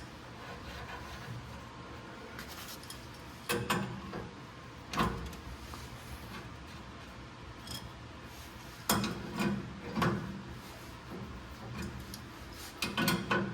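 Hand tools clinking and knocking against steel under a truck while ladder-bar bolts are worked on: a few separate metallic knocks spread out, with a small cluster near the end.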